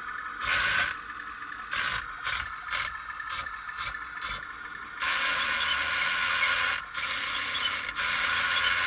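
Small electric drive motors and plastic gearboxes of a mini RC toy tank running in short stop-start bursts with clicks, then running for longer stretches from about five seconds in, cutting out briefly near the seventh second.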